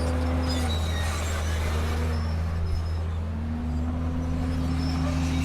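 Komatsu D31P bulldozer's diesel engine running steadily under load. Its pitch sags slightly twice and climbs back a little after the middle.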